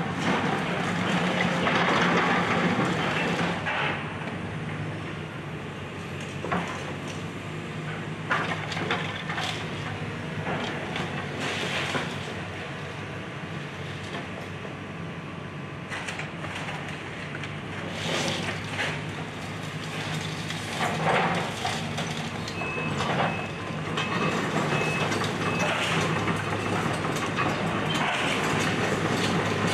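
Excavator's diesel engine running steadily while it crunches and breaks up house debris, with repeated cracks, crashes and clanks of wood and rubble. A short run of faint high beeps sounds about three quarters of the way through.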